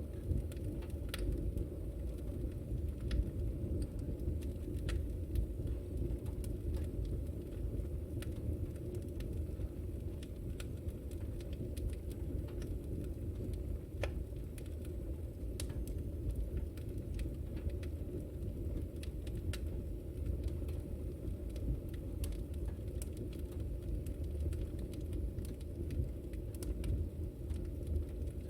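Wood fire in a fireplace crackling, with frequent small pops and snaps scattered over a steady low rumble of the flames.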